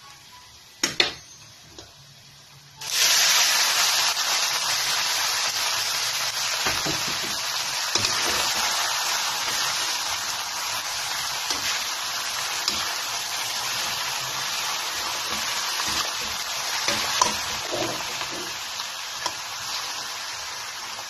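Garlic frying faintly in a wok with a few metal spoon clicks, then about three seconds in a loud sizzle starts as mung beans are sautéed in the hot oil. The sizzle slowly dies down, with the spoon clicking against the pan now and then.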